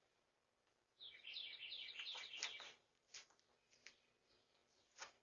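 Faint bird chirping: a quick run of high, falling chirps about a second in, then a few single chirps.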